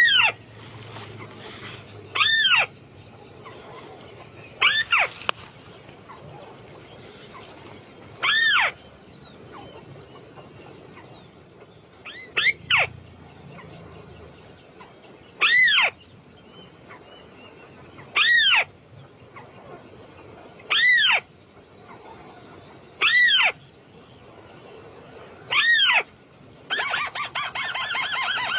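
White-browed crake calling: a loud, short nasal call, rising then falling in pitch, repeated about every two to three seconds, ten times. Near the end a fast chattering begins.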